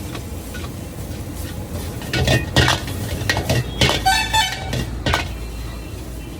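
Metal spatula clanking and scraping against a wok as fried rice is tossed, several sharp clanks from about two seconds in, over a steady low rumble. A vehicle horn honks briefly about four seconds in.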